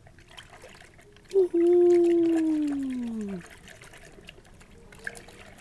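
A single drawn-out vocal hum of about two seconds, starting about a second and a half in and falling steadily in pitch, over faint sounds of trickling water.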